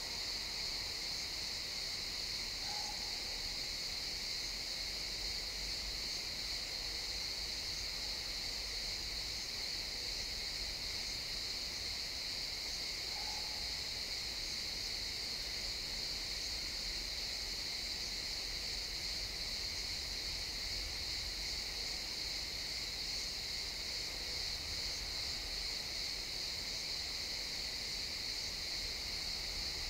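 A chorus of crickets chirping steadily in a pine forest, forming an unbroken high-pitched drone. A faint low rumble sits underneath it.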